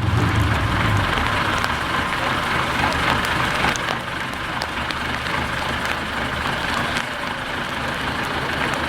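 Heavy off-road trial truck's engine running steadily, with a few faint clicks and knocks over it.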